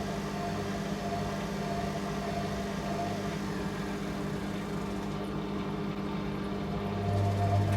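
Candy Aquamatic 100F compact washing machine in its final spin at up to 800 rpm, the motor and drum giving a steady hum. A deeper hum swells louder about seven seconds in.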